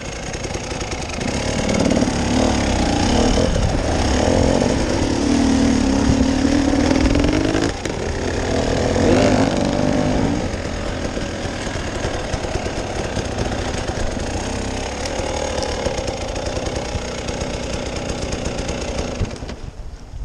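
Off-road vehicle's engine revving hard under load on a difficult climb, its pitch rising and falling several times, then running more steadily before dropping away near the end.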